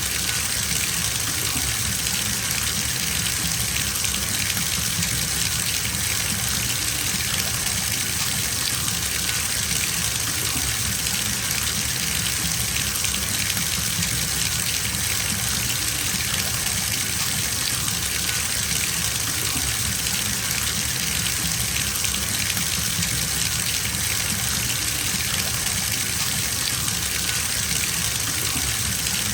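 Bathtub filling from its tap: a steady, unbroken gush of running water.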